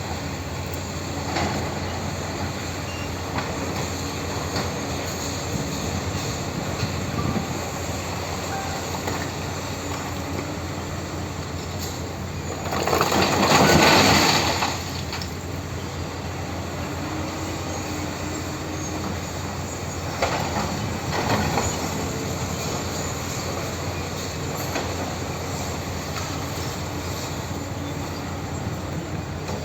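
Heavy tractor running steadily while working rock. A louder rush of noise lasts about two seconds partway through, with smaller swells later.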